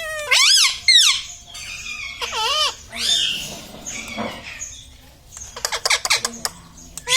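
Pet ring-necked parakeet giving a series of loud, wavy squawks that rise and fall in pitch, with a quick run of clicking chatter a little before the end.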